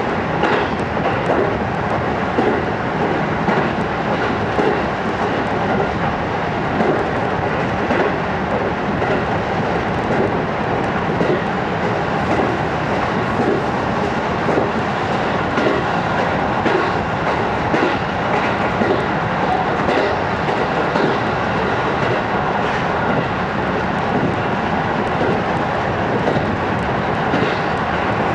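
JR East 205 series electric train running at speed, heard from inside the carriage: a steady running noise with the wheels clicking over rail joints.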